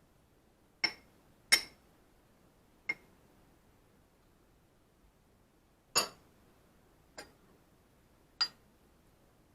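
Cutlery clinking against a dish: six sharp, separate clinks with a brief ring, in two groups of three.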